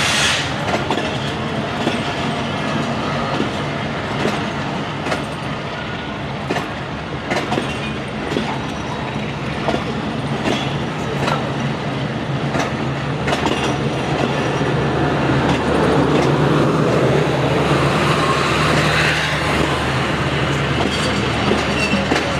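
Passenger train accelerating away, its coaches rolling past with wheels clicking over rail joints, over a steady low drone from the diesel locomotive running at full throttle (notch 8). The rolling noise swells louder about two-thirds of the way through.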